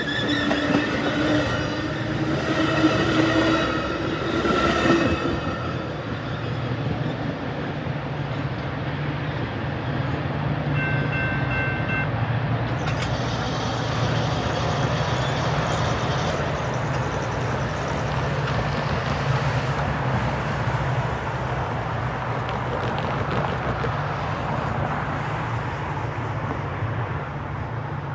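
Metra commuter train of bilevel coaches rolling past and drawing away, a steady rumble of wheels on rail. The horn of the lead F40PH-3 locomotives sounds in the distance for the first few seconds and fades out.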